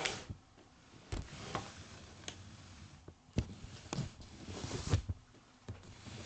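Scattered faint clicks and knocks with brief rustling, a louder rustle about four and a half seconds in; no engine is running.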